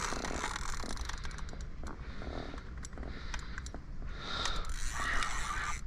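Fishing reel being wound in while a hooked carp is played, with scraping, mechanical winding noise and scattered sharp clicks.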